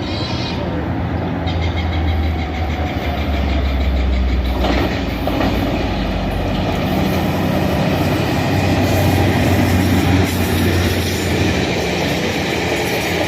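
Northstar commuter train passing close by: a diesel locomotive's engine drone is heard for the first few seconds, then the steady rumble and clatter of the coaches' wheels on the rails.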